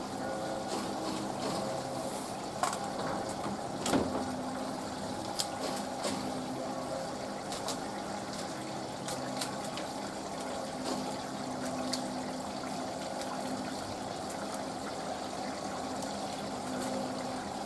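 Panasonic washing machine in the early part of its wool cycle, with water running in and a steady low machine hum. Sharp clicks come now and then, the loudest about four seconds in.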